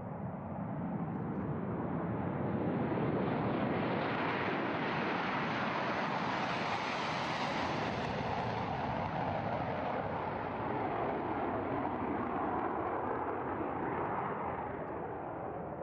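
Jet fighter flying past, a steady rushing jet noise that grows brighter toward the middle and then dulls again as it moves away.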